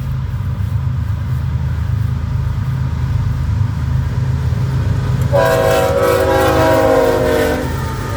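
BNSF GE ES44C4 diesel locomotive's engine rumbling steadily as the train comes in, then its air horn blows one long multi-note chord about five seconds in, lasting about two and a half seconds and falling slightly in pitch.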